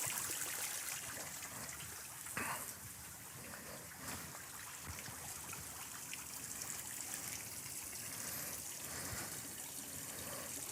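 Garden water fountain steadily trickling and splashing into its pool.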